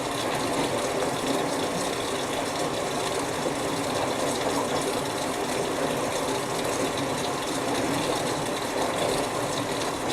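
Whirlpool Duet Sport front-load washer filling for its rinse: water rushing in through the inlet into the drum as a steady hiss, stopping abruptly near the end as the fill shuts off.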